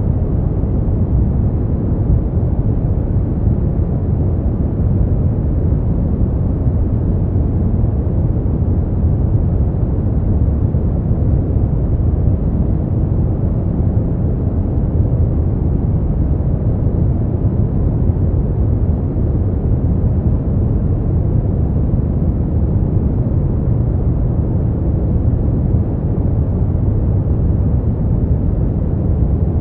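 Steady, unchanging noise sleep track, deep and rumbling: its energy sits in the low range with little hiss on top, closer to brown noise than to true white noise.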